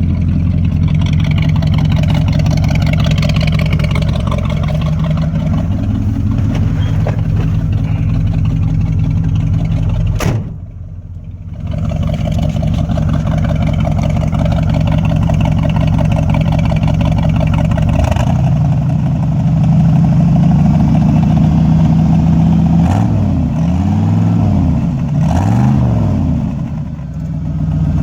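1974 Ford F-100's 390 FE V8 running through dual exhaust with glass-pack mufflers, a steady low note. The sound briefly drops away a little over a third of the way in, and near the end the engine is revved up and back down twice in quick succession.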